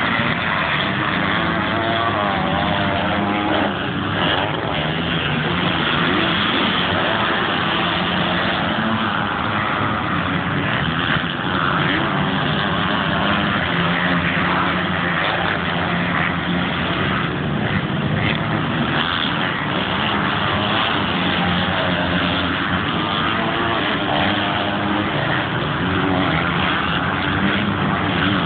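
Motocross bike engines revving hard during a race, pitch rising and falling continuously as the riders accelerate, back off and shift gear.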